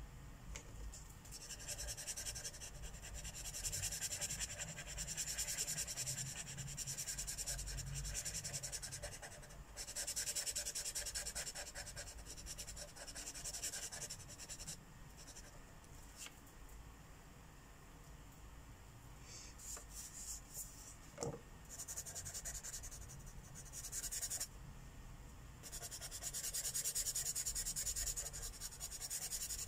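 Marker tips scratching across coloring-book paper in quick back-and-forth strokes, in several spells with short pauses between them. A single light tap comes about two-thirds of the way through.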